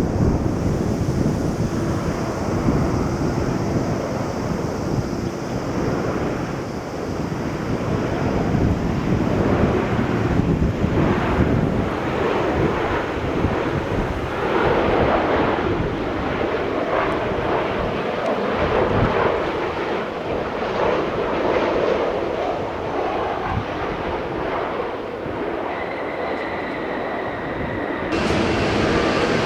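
Jet airliner engines rumbling loudly, with a high turbine whine that fades out about halfway through. Near the end the sound changes suddenly to a different steady jet noise with several steady tones.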